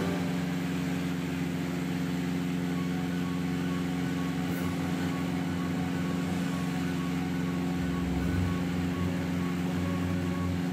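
Steady engine drone of a light twin-engine airplane, with a deeper low hum coming in near the end.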